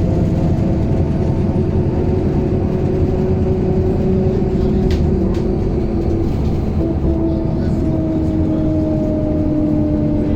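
MAZ-107 city bus driving, heard from inside the passenger cabin: a steady engine and road rumble with a whine that slowly falls in pitch, a fresh whine starting about seven seconds in. A few light rattles or clicks come about halfway through.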